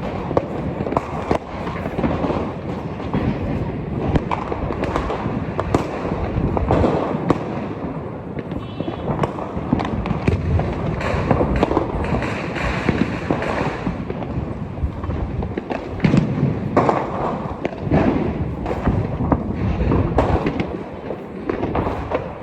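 Fireworks and firecrackers going off without pause: many sharp pops and bangs overlap into a constant crackle.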